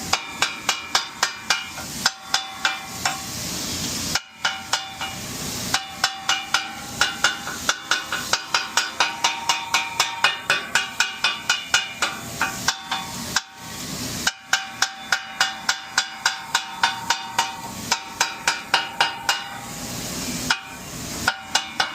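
Metal chopping tools striking a steel flat-top griddle as cheesesteak meat is chopped up, a rapid, even pounding of about four to five ringing clanks a second. It stops for a moment three times along the way.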